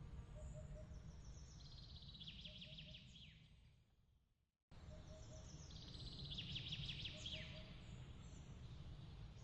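Songbird singing, with phrases of rapid trilled notes and quick falling notes over a low steady rumble and soft repeated triple chirps. The sound fades to silence about four seconds in, then cuts back in abruptly and the same pattern repeats: the seam of a looped ambience recording.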